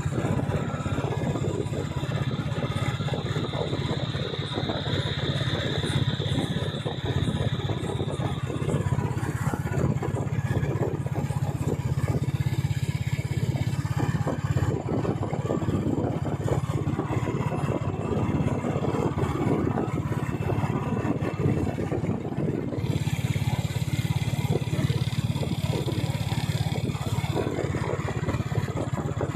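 Royal Enfield motorcycle engine running steadily under way, with a low pulsing exhaust note and road and wind noise.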